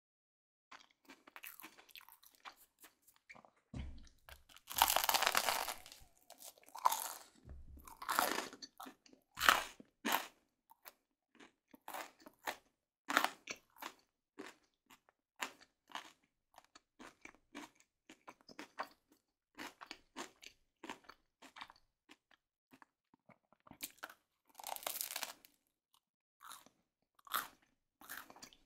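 Close-miked chewing of crusty baked garlic baguette, with irregular crisp crunches. The crunching is loudest about five and nine seconds in and again near the end.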